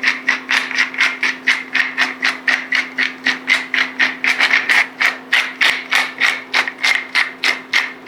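Pepper grinder being twisted to grind pepper, a steady run of sharp ratcheting clicks at about four a second.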